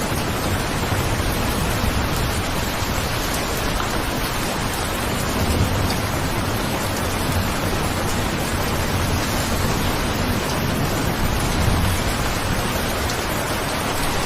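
Steady rain falling, with a low rumble underneath that swells a couple of times.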